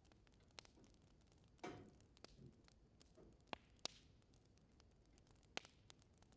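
Wood fire in a fireplace crackling: a few sharp, sparse pops, with a longer crackle about one and a half seconds in, over a quiet background.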